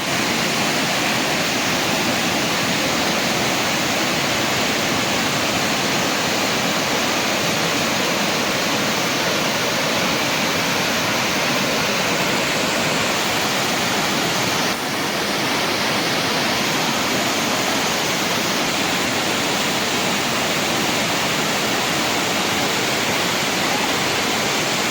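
Waterfall: a steady, full rush of falling water, dipping slightly for a moment about fifteen seconds in.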